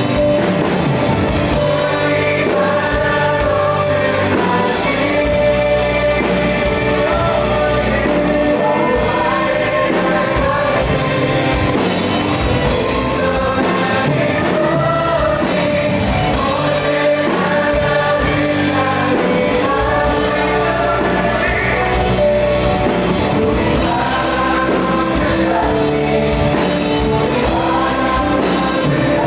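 Live contemporary worship band playing steadily with several voices singing together: keyboard, drum kit, bass guitar and electric guitars under the singers.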